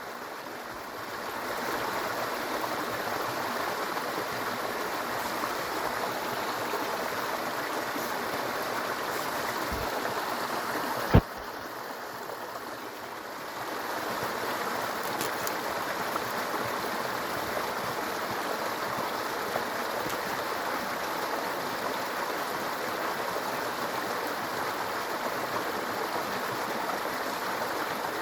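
Small brook babbling steadily over stones, a continuous rush of water. About eleven seconds in there is a single sharp click, after which the water is quieter for a couple of seconds.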